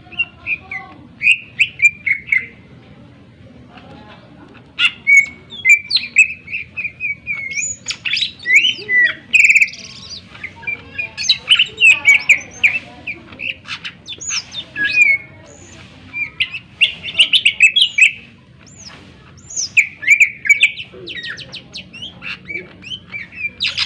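Greater green leafbird (cucak ijo) singing loudly: bursts of sharp whistles, quick rising and falling notes and fast chattering phrases, with short pauses between bursts.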